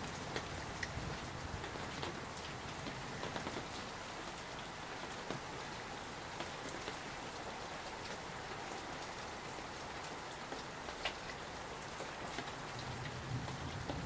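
Steady summer rain falling: an even hiss dotted with sharp, scattered drop ticks. A low rumble swells in near the end.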